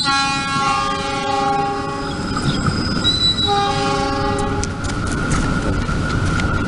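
Train horn sounding twice, a blast of about two seconds and then a shorter one, over the running noise of a train on the rails.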